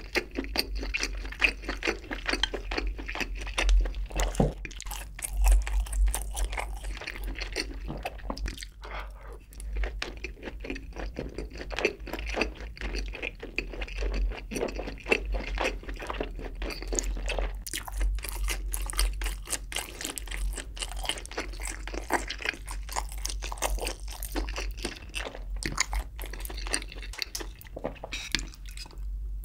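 Close-miked chewing of spicy braised chicken (jjimdak) with sausage: a dense, continuous run of small wet mouth clicks and squelches, over a faint steady low hum.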